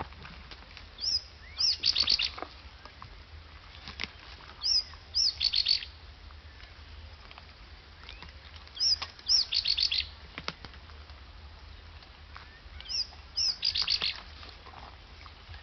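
A songbird repeating the same short song four times, about every four seconds: two quick high chirps followed by a fast run of notes. A steady low rumble sits underneath.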